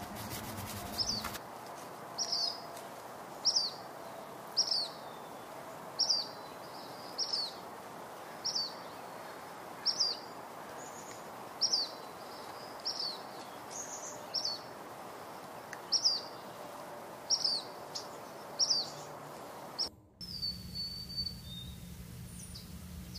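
A bird calling over and over, one short falling chirp about once a second, over a steady background hiss. About twenty seconds in, the background switches abruptly to a low hum, and one more chirp follows.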